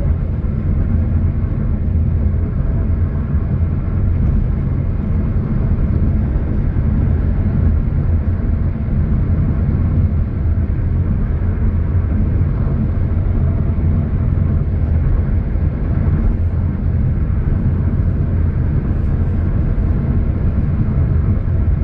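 A car driving, heard as a steady low rumble of road and engine noise that holds even throughout.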